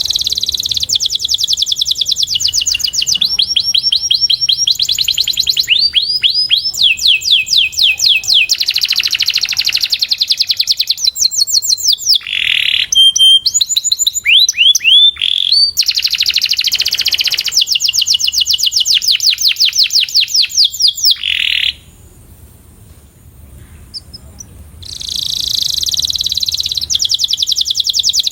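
Canary singing long, fast trills of rapidly repeated notes, some of them rising glides. The song breaks off for about three seconds past the middle, then resumes.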